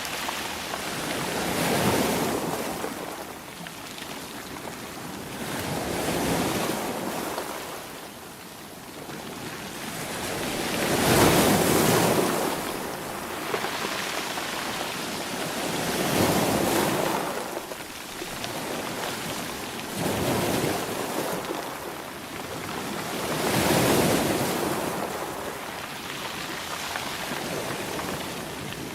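Sea waves surging in and washing back in a slow, even rhythm, one swell about every four to five seconds.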